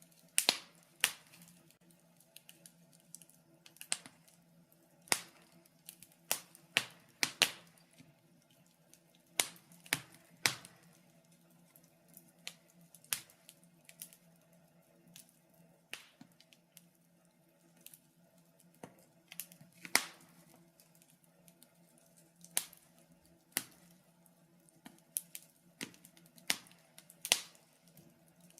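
Wood fire in a fireplace crackling, with irregular sharp pops and snaps, a few much louder than the rest, over a faint steady low hum.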